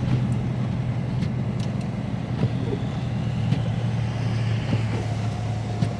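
Steady low drone of a 2022 Dodge Charger Scat Pack's 392 (6.4 L) HEMI V8 and its road noise at a steady cruise, heard from inside the cabin. A few faint ticks sound over it.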